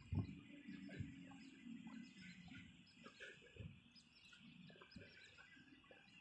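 Faint chirping of small birds, over low thumps of footsteps on paving stones that are loudest in the first second.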